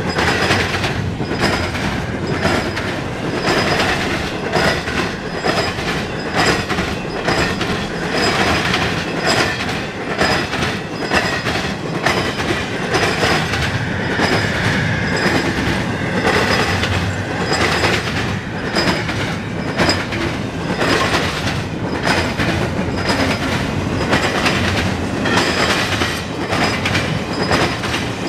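Freight train cars rolling past close by, the wheels clicking and clattering over the rail joints in a dense, steady run, with a steady rumble underneath.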